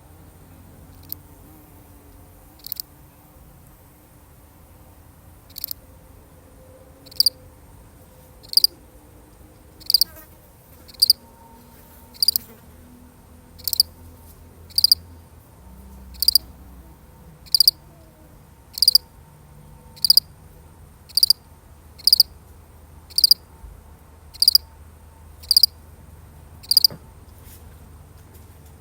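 A single cricket chirping: short high chirps, sparse at first, then settling into about one chirp a second, and stopping shortly before the end.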